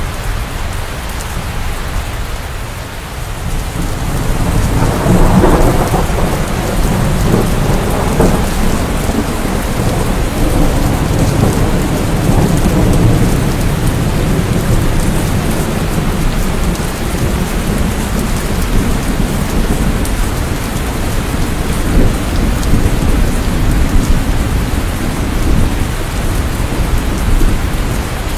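Steady heavy rain with a deep low rumble under it. A roll of thunder swells about four seconds in, is loudest a few seconds later, and slowly fades back into the rain.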